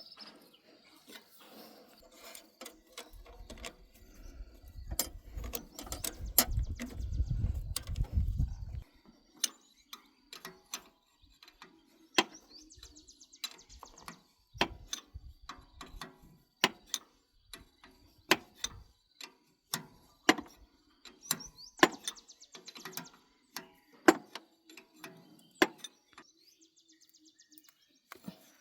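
Hand tools working on a machine: irregular metal knocks and clinks, with three short runs of rapid ratchet-wrench clicking. A low rumble rises and cuts off suddenly about nine seconds in.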